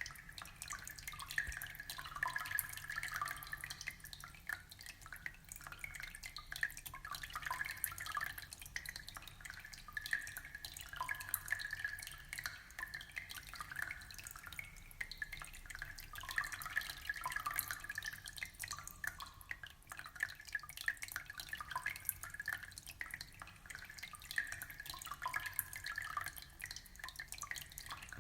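Aquarium water trickling and bubbling: a steady, irregular patter of small drips and splashes.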